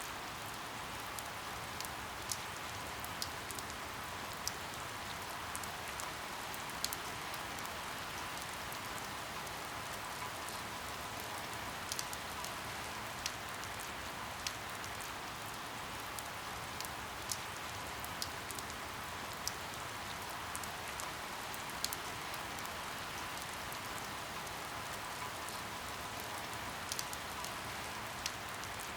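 Steady rain falling, a dense even patter, with sharp single drop ticks standing out at irregular intervals, about one every second or two.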